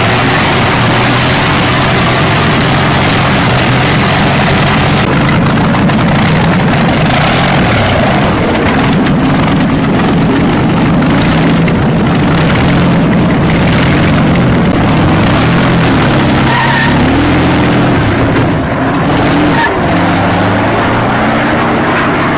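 Huge 64-litre engine fitted under a car's hood, running loud and steady, its pitch wavering up and down in the second half as it is revved a little.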